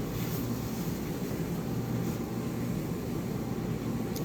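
Steady low hum with a hiss over it, unbroken and without distinct knocks or clicks: the background noise of a running machine in the room.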